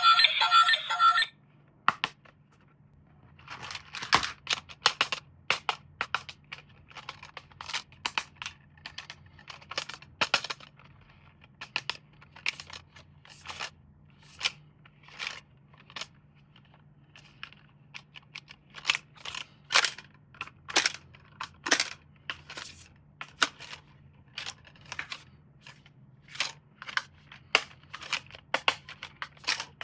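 Background music cuts off about a second in. Then comes an irregular run of sharp clicks and snaps of plastic toy parts and packaging being handled, sometimes several a second, over a faint steady hum.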